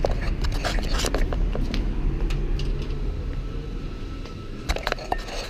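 Car running, heard from inside the cabin as a steady low rumble, with scattered clicks and knocks of handling inside the car.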